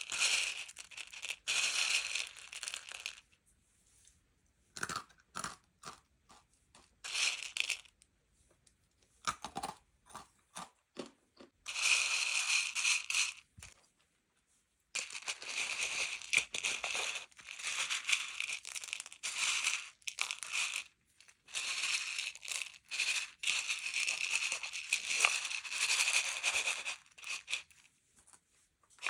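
Packaging crinkled and torn by hand, in bursts of bright crackly noise with short quiet pauses and scattered clicks between them.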